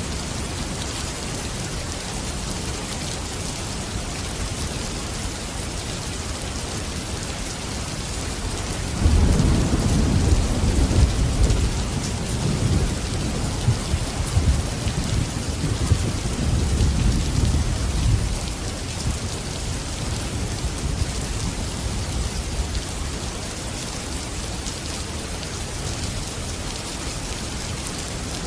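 Steady rain hissing, with a roll of thunder that breaks in about a third of the way through, rumbles for around ten seconds and then fades.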